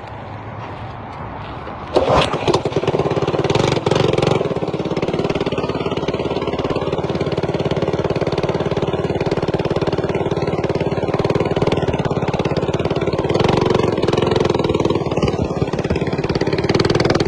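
Small single-cylinder mini bike engine starting about two seconds in, revving unevenly for a couple of seconds, then running at a steady speed.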